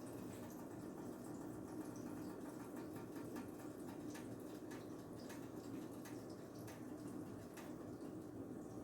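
Pancake batter sizzling faintly in a buttered pan, small pops and crackles over a steady low hum.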